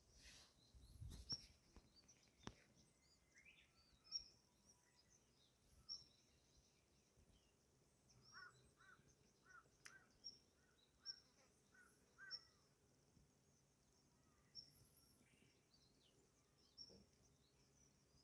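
Faint outdoor ambience with small birds chirping: short high chirps repeating about once a second, and a brief run of lower chirping calls midway. A few faint clicks are heard near the start and about halfway through.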